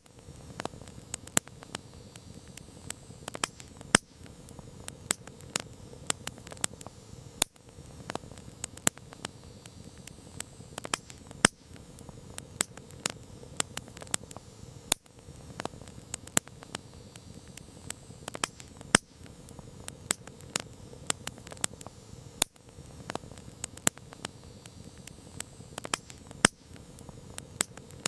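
Campfire crackling: irregular sharp pops and snaps, several a second, over a low steady rush of burning wood.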